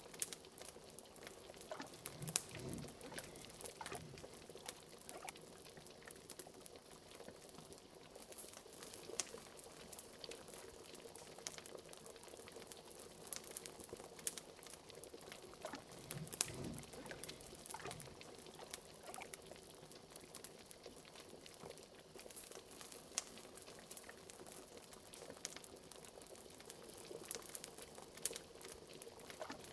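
Bubbling cauldron: liquid boiling with irregular pops and a few deeper glugs, mixed with the small crackles of a fireplace.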